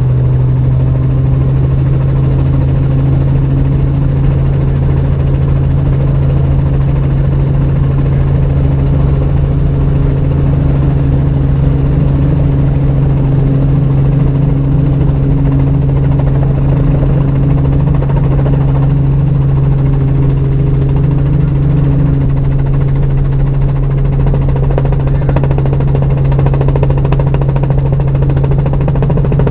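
Robinson R44 helicopter in flight: the steady loud drone of its six-cylinder Lycoming piston engine and rotor system, with a strong low hum that holds unchanged throughout.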